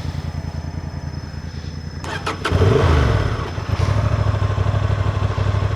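Adventure motorcycle engine idling steadily. A few clicks come about two seconds in, then a short blip of the throttle rises and falls, and the engine settles back to idle.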